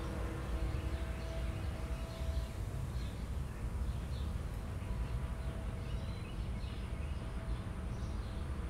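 Faint bird chirps, short and scattered, over a steady low rumble of background noise.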